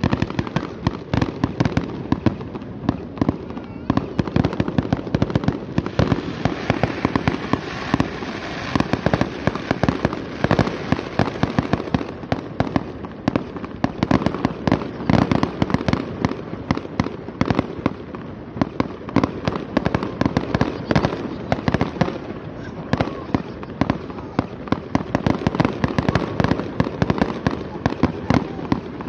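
Aerial fireworks display going off in a rapid barrage, many overlapping bangs with crackling in quick succession.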